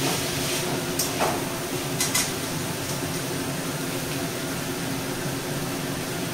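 Banana flower frying in a metal kadai with a steady sizzling hiss. A metal spatula knocks and scrapes against the pan a few times in the first couple of seconds, then is set down.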